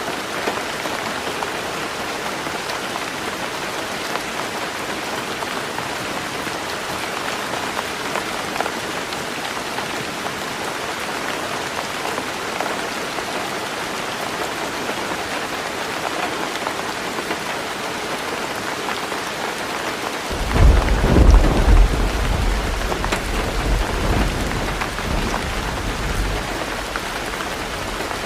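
Heavy rain drumming steadily on a tin roof. About twenty seconds in, a sudden deep thunder rumble breaks in, the loudest sound, and rolls away over several seconds.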